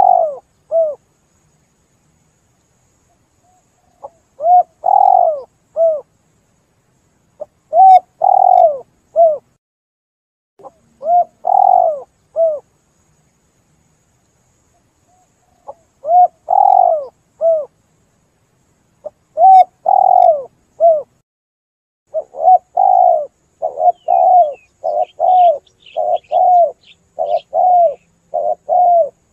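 Spotted dove (tekukur) cooing: phrases of three or four coos every few seconds with silent gaps between, then a quicker unbroken run of coos over the last seven seconds. Faint high chirps of a small bird come in about two thirds of the way through.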